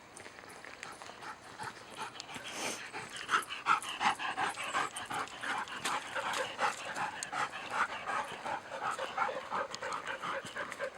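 A dog panting hard and fast after running. The panting is faint at first, then gets louder from about three seconds in and keeps a quick, even rhythm.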